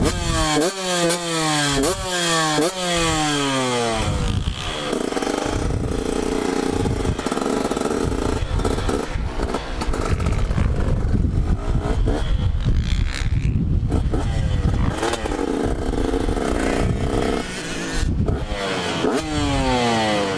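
Two-stroke dirt bike engine revving up through the gears, its pitch climbing and dropping back at each shift several times in the first four seconds. Then a long stretch of steadier, noisier running, with another run of upshifts near the end.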